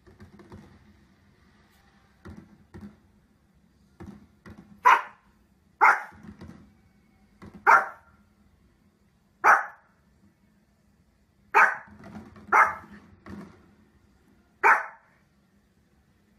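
A small fluffy dog barking: seven sharp single barks spaced one to two seconds apart, starting about five seconds in, with a few soft knocks before the first bark.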